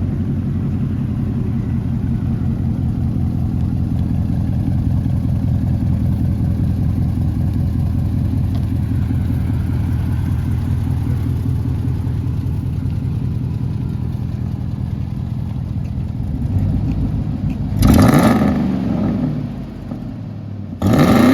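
Ford 5.4L Triton V8 idling steadily through an exhaust with its two larger catalytic converters cut out and replaced by flex pipe, then revved briefly twice near the end.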